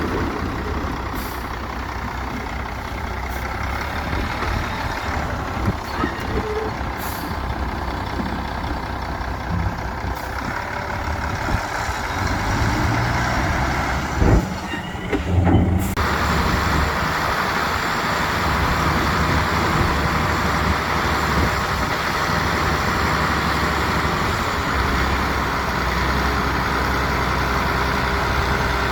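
Heavy diesel engines of dump trucks and a crawler bulldozer running steadily at work, with a few sharp knocks about halfway through.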